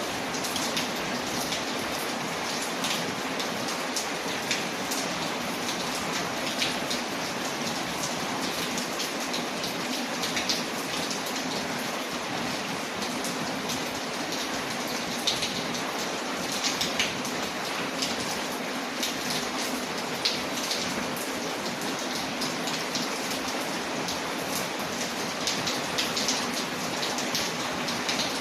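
Steady rain on a window: an even hiss with many scattered sharp ticks at irregular moments.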